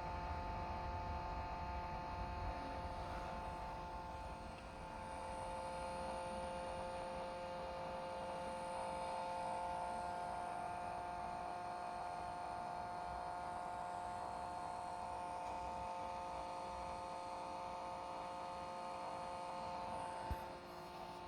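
DJI radio controller giving off a weird steady electronic hum made of several high tones held at one pitch, along with a vibration. About 20 seconds in the tones cut off with a small click.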